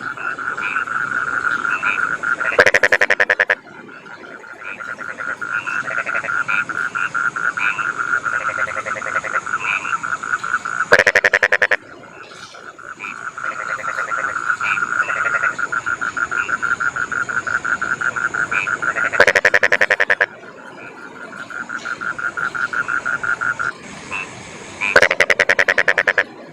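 Rice-field frogs calling in a chorus: rapid pulsed croaks that build in loudness over several seconds, broken four times by a louder, rasping burst of about a second.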